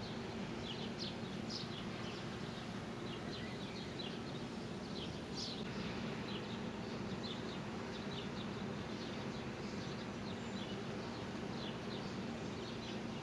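Small birds chirping, many short high calls that fall in pitch, scattered irregularly over a steady low hum.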